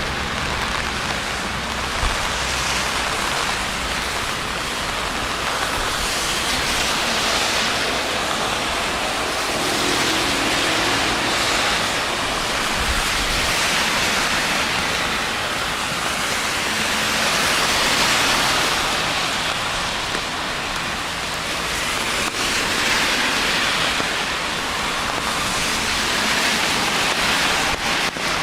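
Steady hiss of rain falling on a city street, swelling and fading every few seconds.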